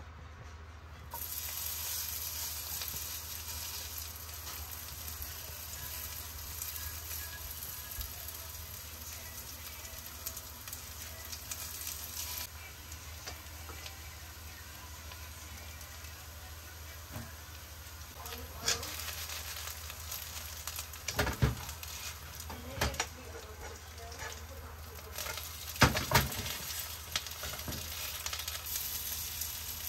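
Food sizzling as it fries in hot oil in a pan; the sizzle rises suddenly about a second in. A few sharp knocks, the loudest sounds, come about two-thirds of the way through and again near the end.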